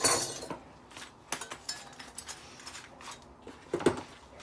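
Small metal parts of a heavy-duty decking light clinking and knocking as it is taken apart by hand: a sharp clink at the start, a few lighter clinks, and another clear clink near the end.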